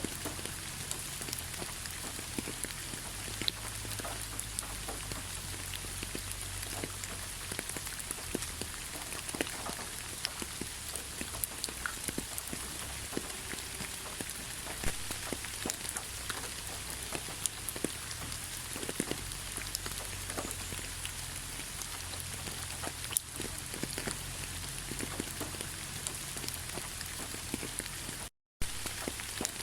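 Steady rainfall: a constant hiss with many individual raindrops striking close by as sharp ticks. The sound drops out to silence for a split second near the end.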